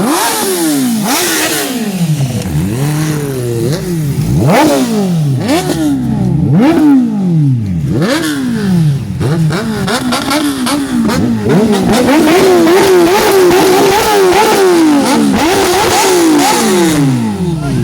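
Kawasaki ZX-10R superbike inline-four engines revving again and again through the exhaust, the pitch climbing and falling back each time, with quicker, shorter revs in the second half.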